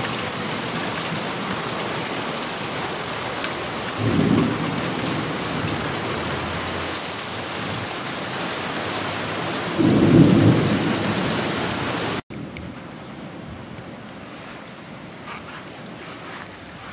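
Heavy rain pouring down in a thunderstorm, with a rumble of thunder about four seconds in and a louder one near ten seconds in. After an abrupt cut near the end, the rain continues more quietly.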